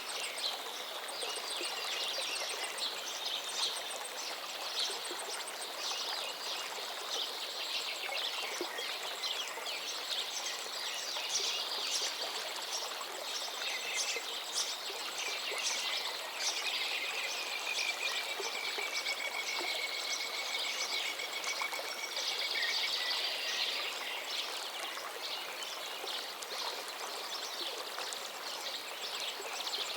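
A river flowing steadily while many birds chirp and sing over it, with one long, slightly falling trill in the middle.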